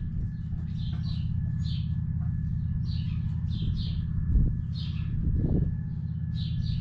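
Small birds chirping over and over in short paired notes, above a steady low rumble, with a couple of soft thumps near the middle.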